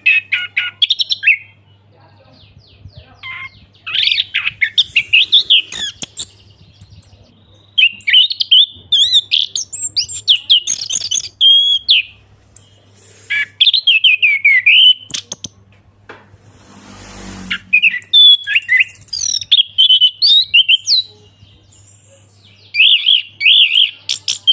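Orange-headed thrush singing its full, loud song: bursts of rich, varied whistled phrases a few seconds long with short pauses between. A faint steady hum lies underneath, and a short rush of noise comes about seventeen seconds in.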